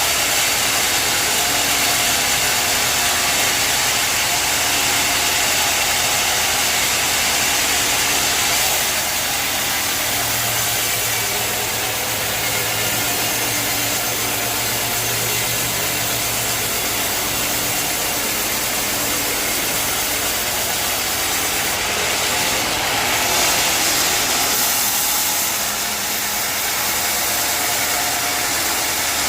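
Sawmill machinery running: a steady motor hum under a loud, even rushing noise, with the hum growing stronger for a few seconds near the middle.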